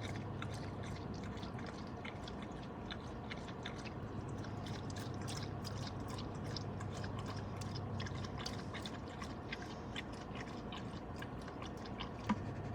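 Steady low hum of a vehicle running, heard from inside, with many light scattered clicks and rattles.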